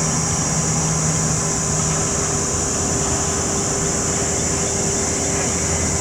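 Airliner jet engines running steadily, a loud, even rush with a high whine over it and a few steady lower tones.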